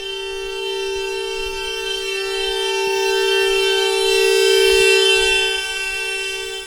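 Alarm horn sounding one steady, unbroken tone with two close pitches. It swells louder to a peak about five seconds in, then eases back near the end.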